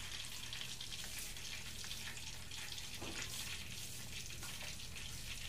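Chicken cordon bleu frying in hot oil: a steady, low-level sizzle with many fine crackles.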